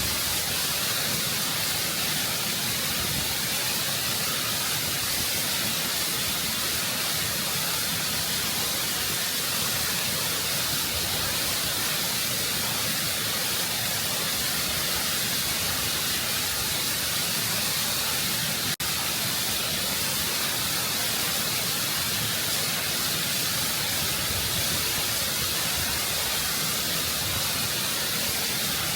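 Waterfall water rushing and cascading over rock, heard close up as a steady, full hiss of falling water. There is a split-second dropout about two-thirds of the way through.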